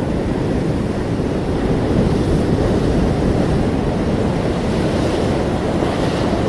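Ocean surf breaking and washing, a steady deep rush with a slightly brighter wash of spray about five to six seconds in.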